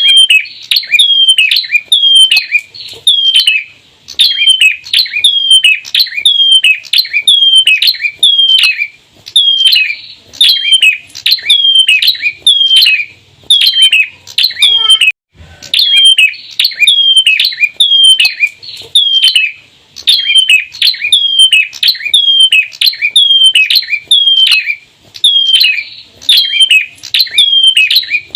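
Bar-winged prinia (Prinia familiaris) calling rapidly and without pause in the 'ceplir' call type: short, high chirp phrases that each drop in pitch, repeated nearly twice a second, with a brief break about halfway through.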